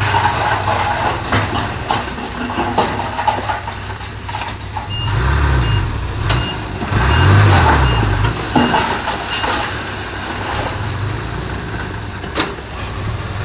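Heavy diesel earthmoving machinery running, its engine revving up and down twice, while a back-up alarm beeps about twice a second for several seconds midway. A single sharp metallic knock comes near the end.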